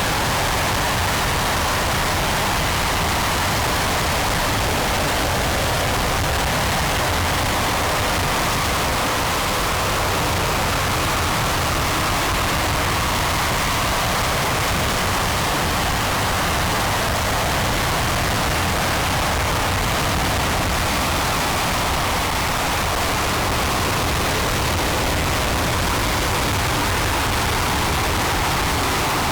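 RS-25 liquid-hydrogen/liquid-oxygen rocket engine firing on a test stand: a loud, steady, unbroken rushing noise.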